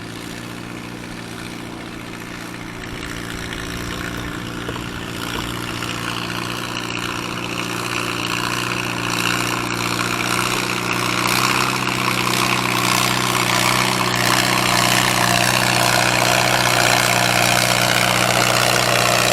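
Gas farm tractor engine pulling hard at a steady pitch under load in a tractor pull, growing steadily louder as it comes nearer. The engine note falls away at the very end.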